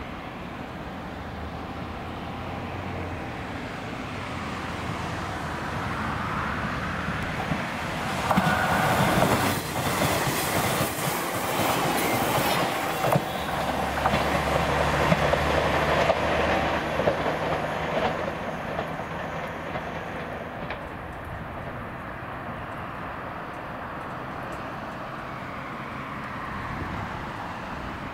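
Four-car JNR 381-series electric multiple unit running past. It grows louder as it approaches, passes close by about eight seconds in with wheels clacking over the rail joints, then fades as it draws away.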